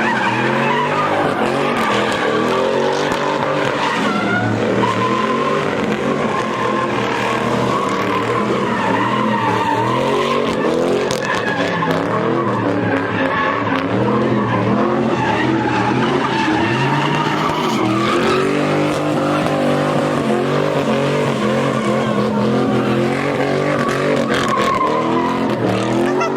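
A car's engine revving hard and wavering up and down while its tyres screech continuously, as a car spins or drifts on the pavement.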